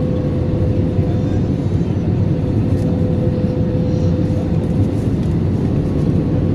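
Steady roar inside an Airbus A320-200's passenger cabin in flight on approach: engine and airflow noise, with a steady tone running through it.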